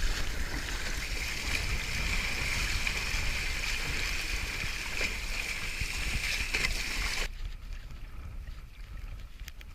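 Water rushing and splashing along the hull of a Hobie Tandem Island sailing kayak under way, with a low wind rumble. About seven seconds in the sound cuts to a quieter, duller water wash.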